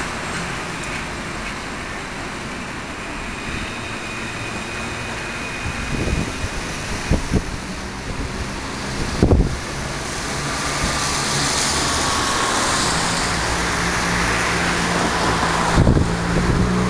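Alstom Citadis tram and street traffic going by, a steady rolling noise that swells in the second half, with a faint whine and low hum. Wind buffets the microphone a few times.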